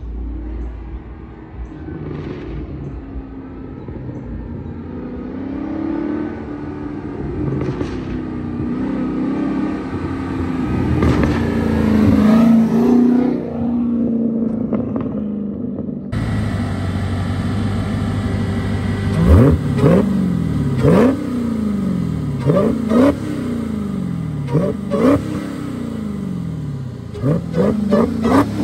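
Straight-piped Dodge Hellcat's supercharged 6.2-litre Hemi V8 with no mufflers. Its pitch climbs steadily under load over the first half, then it gives a run of sharp throttle blips, about one every two seconds, each jumping up quickly and falling back to idle.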